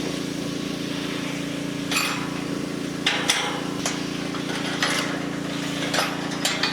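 Metal round-pen panels clanking as they are moved and fitted together: a run of sharp metal knocks and clinks, the first about two seconds in, over a steady low mechanical hum.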